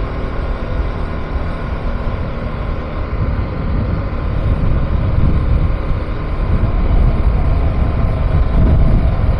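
KTM 390 Adventure's single-cylinder engine running as the motorcycle is ridden, a steady rumble that grows a little louder from about halfway through.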